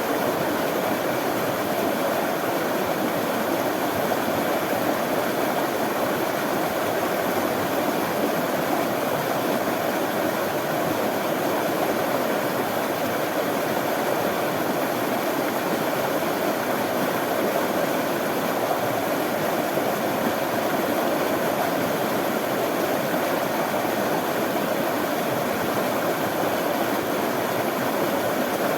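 Running water flowing steadily, an even rushing with no breaks or changes.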